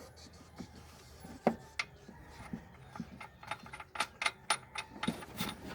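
Metal hand tools clicking and clinking in a string of sharp, irregular clicks, growing closer together toward the end, during work on an engine.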